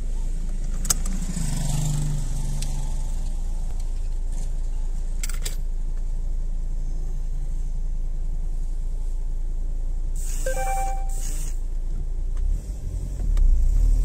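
Car engine idling, heard from inside the cabin, with a moped's small engine passing close by about a second in. Near the end the car pulls away and its engine note rises.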